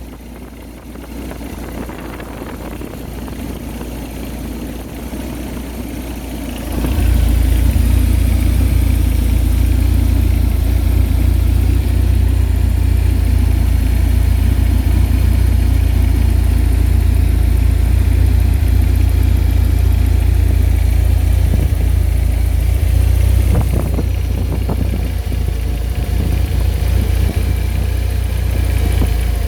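BMW E36 318ti's M42 1.8-litre four-cylinder engine running steadily. It becomes much louder and deeper about seven seconds in, and eases slightly after about twenty-four seconds.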